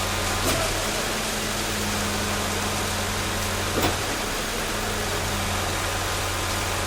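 Steady rain hiss over a constant low engine hum, with two short knocks, about half a second in and a little before the four-second mark.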